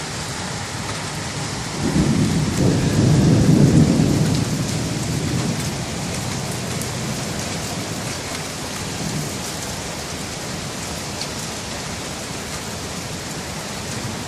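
Steady rain falling, with a low rumble of thunder that swells about two seconds in and dies away a few seconds later.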